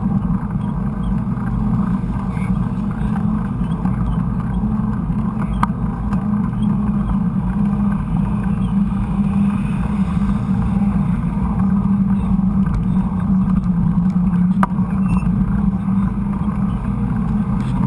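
Steady low rumble of a mountain bike being ridden over a trail: tyre and ride noise mixed with wind on the bike-mounted camera, with two sharp clicks or knocks, one about a third of the way in and one near the end.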